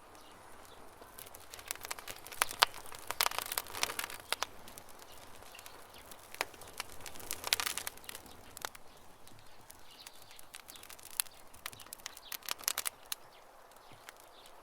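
Wood campfire crackling: irregular sharp snaps and pops that come in several busy clusters, over faint birdsong.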